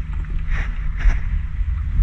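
Small boat's motor running low and steady, with wind rumble on the microphone, and two short hissing noises about half a second and a second in.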